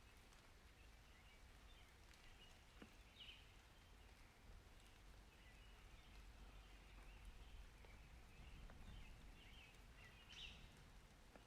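Near silence: a faint steady low rumble with a few faint, short chirps about three seconds in and again near the end.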